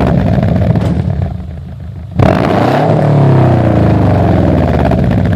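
Car engine revving through a loud exhaust: a held rev that eases off, then a sharp blip of the throttle about two seconds in whose pitch falls away as the revs drop.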